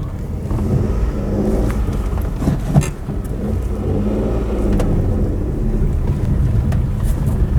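Car engine running under load, its pitch rising and falling as the car drives on, with a sharp knock about three seconds in.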